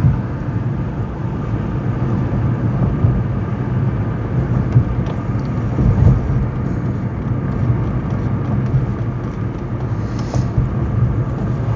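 Steady road and engine rumble of a car driving, heard inside the cabin.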